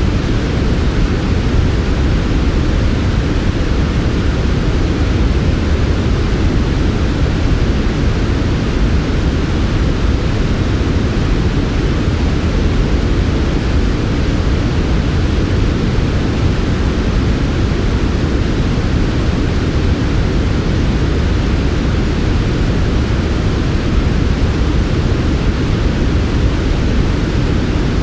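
Steady, unchanging synthetic white noise for sleep, with no breaks or events. It is weighted toward the low end, a deep, smooth hiss with muted highs.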